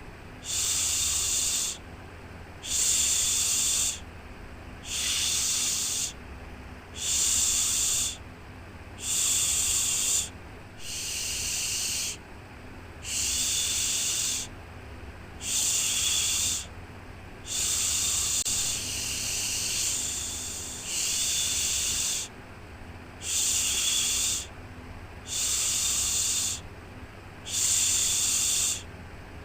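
Rhythmic shushing, a hissing 'shhh' repeated about every two seconds, each shush lasting about a second, over a steady low hum. Around the middle a few shushes run longer and softer.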